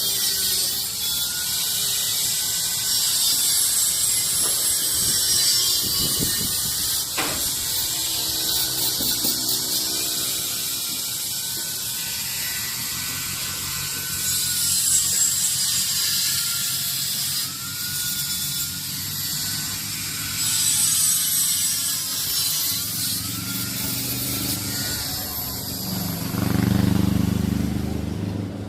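Metalworking on a steel frame: a steady high hissing crackle that surges and eases, with a faint whistle rising and falling over it. A deeper rumble comes in near the end.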